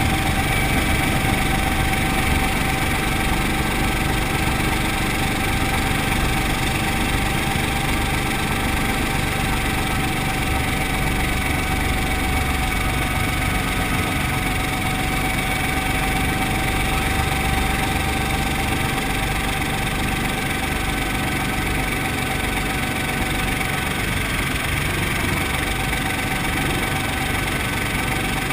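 Brantly B2B helicopter's piston engine and rotor system running steadily, a constant mechanical drone with a steady whine and no change in pitch or level.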